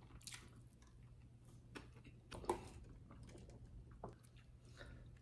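Faint close-up chewing of a soft slider burger: quiet wet mouth sounds and small scattered clicks, with a few slightly louder smacks.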